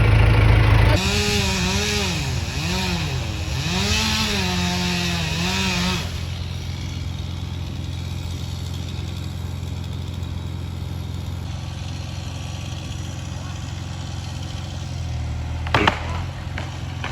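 Chainsaw running, its revs rising and falling for about five seconds as it cuts into a tree trunk, then a steady low engine drone. Near the end a sharp crack, followed by splintering wood as the tree starts to give.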